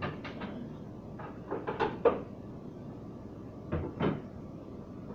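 Condiment bottles and jars knocking as they are set into the shelves of a refrigerator door: several short knocks and clatters in small groups, near the start, around one and a half to two seconds in, and again near four seconds.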